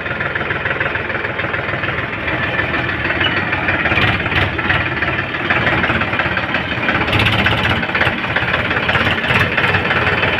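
Heavy machinery's diesel engine running steadily, growing louder about four seconds in and again around seven seconds as it works harder.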